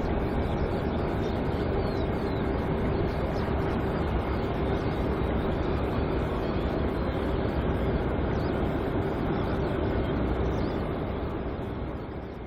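Airbus A380-800 jet engines running as a steady rumble with a steady hum, fading slightly near the end.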